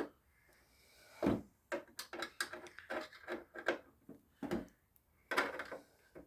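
Irregular clicks, taps and a few heavier knocks of tools and parts as screws are fastened to lock the blower motor into the heater box.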